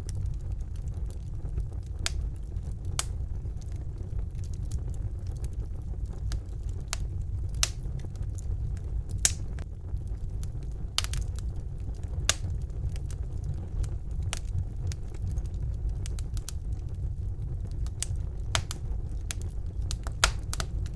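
Wood fire burning in a fireplace: a steady low rumble of the flames with sharp crackles and pops at irregular intervals, a few louder pops standing out.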